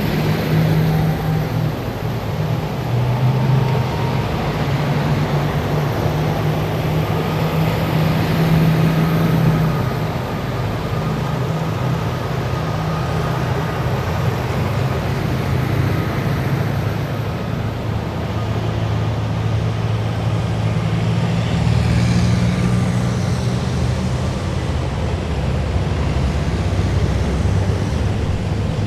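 A column of heavy military vehicles passing, their engines droning steadily with road noise and a faint high whine, the engine note shifting as each vehicle goes by.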